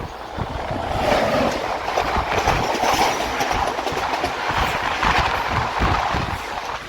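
An oncoming express train passes close alongside a moving train: a loud rush of wheel and wind noise that swells about a second in. Rapid wheel clatter over rail joints runs through it.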